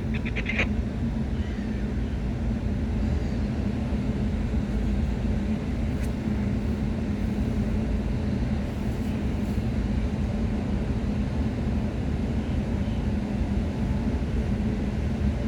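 Steady low engine rumble with an even, droning hum.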